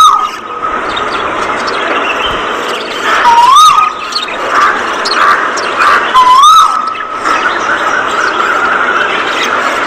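A flock of budgerigars chattering and chirping without a break. A loud rising-then-falling whistle repeats three times, about three seconds apart.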